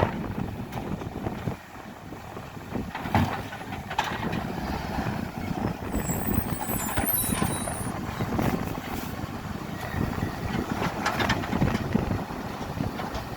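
Garbage truck engine running with a steady low rumble, with several sharp knocks and clatters scattered through it.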